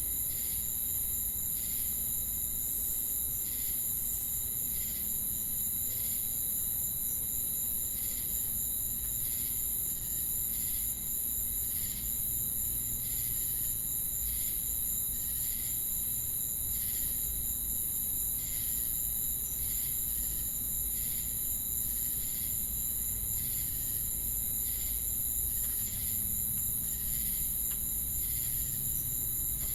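Crickets and cicadas calling together: a steady high-pitched trill runs underneath, with a chorus of short chirps repeating about one and a half times a second.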